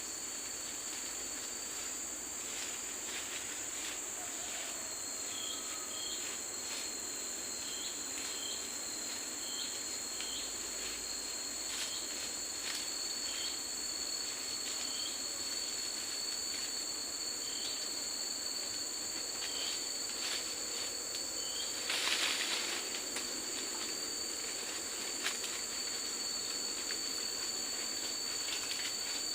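Forest insect chorus: a steady high buzz with a continuous thin whistling tone over it, and short chirps repeating every second or so. About two-thirds of the way through there is a brief louder noise, like a rustle.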